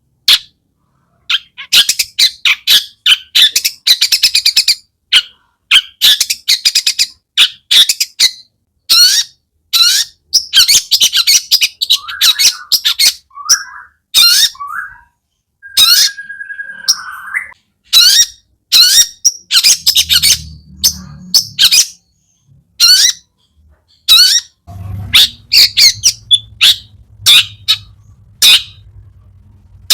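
Long-tailed shrike singing continuously in a rapid string of sharp calls and harsh chatters, with mimicked phrases of other birds worked in, including some lower drawn-out notes midway. A faint low hum comes in near the end.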